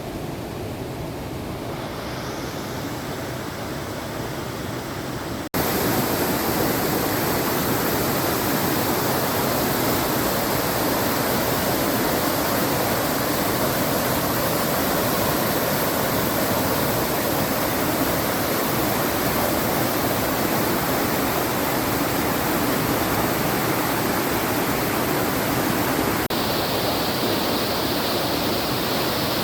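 Steady rushing of water pouring over the rock ledges of a waterfall and rapids. It jumps suddenly louder about five seconds in.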